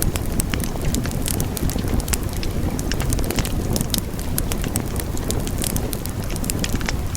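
Wood fire burning steadily in a fireplace, with a low rumble of flames and frequent sharp, irregular crackles and pops.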